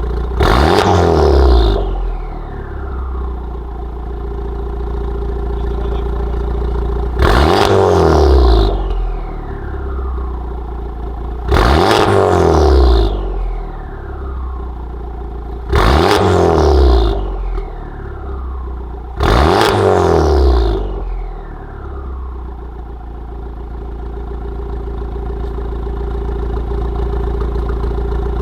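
Honda Civic Type R's turbocharged 2.0-litre four-cylinder, through a catless downpipe and Remus valved cat-back exhaust, idling and blipped five times, each rev rising sharply and falling back to idle over a second or two, then idling steadily.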